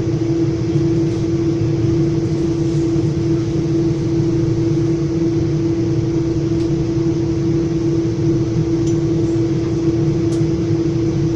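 Inside a moving Metra commuter train coach: a steady low rumble of the train running on the track with a constant hum over it, and a few faint ticks.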